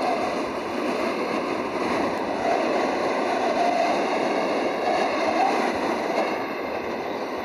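Strong storm wind around a tornado: a loud, steady rushing noise.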